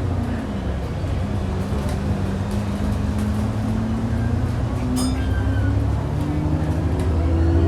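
Alexander Dennis Enviro 400 double-decker bus running under way, its engine and drivetrain giving a steady hoover-like whine that rises in pitch about four and a half seconds in and again near the end as the bus picks up speed. A single sharp click about five seconds in.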